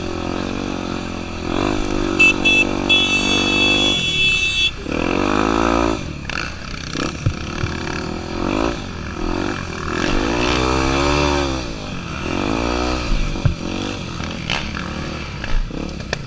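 Single-cylinder four-stroke engine of a Honda Tornado 250 enduro motorcycle riding, its pitch rising and falling several times as the throttle is worked. A shrill steady tone sounds for a couple of seconds near the start.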